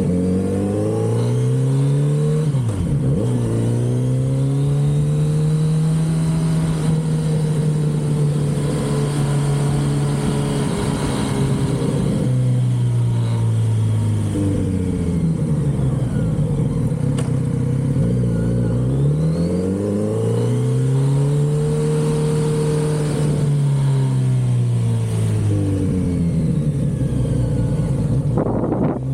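Kawasaki Z900RS inline-four engine through its stock exhaust while riding, the revs climbing, holding and dropping away again several times as the bike accelerates and slows.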